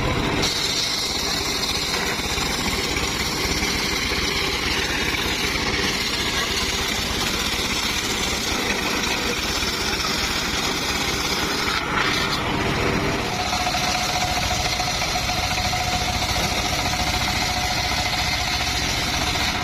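Homemade circular sawmill and its engine running steadily. About thirteen seconds in, a steady whine comes in over the engine.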